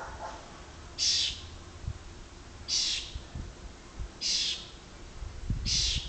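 A bird calling from a tree at night: four harsh, raspy screeches, about one every second and a half, preceded by a shorter, lower call.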